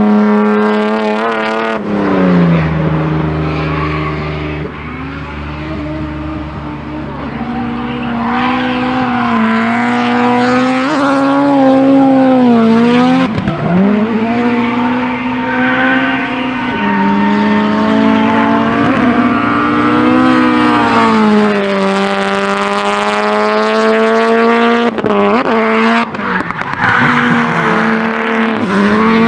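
Honda S2000 drift car's engine held at high revs while drifting, rising and falling in pitch with sharp drops and climbs back about 2, 13 and 25 seconds in, with tyres squealing.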